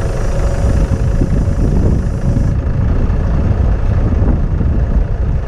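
Strong gusty wind buffeting the microphone, a loud irregular low rumble, with a truck engine running underneath.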